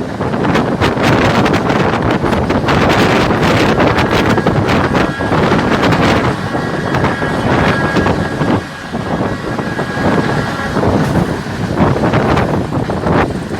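Moving train's running noise under heavy wind buffeting the microphone, with a faint steady high tone in the middle of the stretch.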